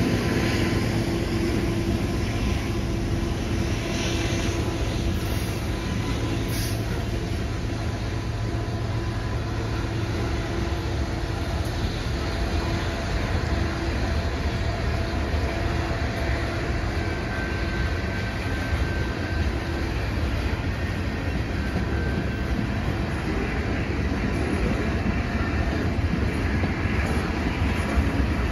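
Freight train cars rolling past on the rails: a steady rumble of steel wheels on track. The diesel engine of the last locomotive hums and fades out during the first few seconds.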